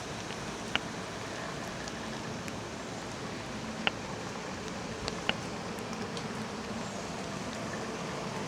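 Steady rain falling, an even hiss, with three sharp taps: one about a second in and two more around four and five seconds in.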